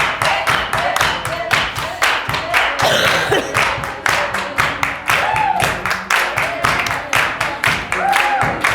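A group clapping in a steady quick rhythm, about four to five claps a second, with voices over it.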